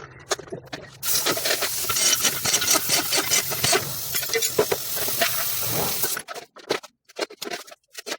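A car engine running with a loud hiss and fast ticking, cutting off about six seconds in, after which only scattered clicks remain.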